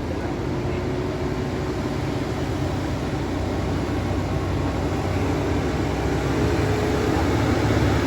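Heavy vehicle engine running under load, growing gradually louder.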